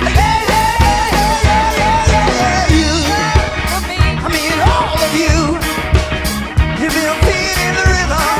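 A band playing an upbeat rock song, a singer's voice over a steady drum beat and bass.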